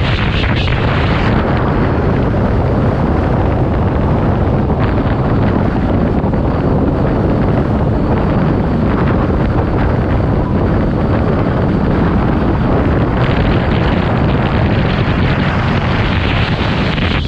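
Supercharged V8 engine of a Toyota Soarer drift car running hard, buried under heavy wind buffeting on the microphone; a steady, loud, even roar with no distinct gear changes.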